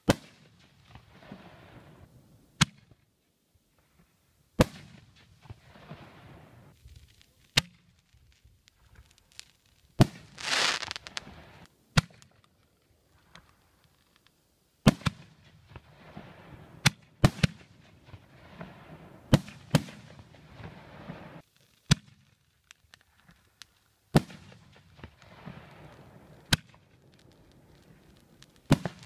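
Fireworks going off: a string of sharp bangs, one every one to three seconds, each trailing off into a fading crackling hiss. A louder hiss lasting about a second comes about a third of the way through.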